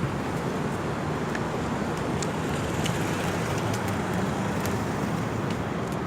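Steady road-traffic noise: an even hiss over a low hum, with a few faint clicks.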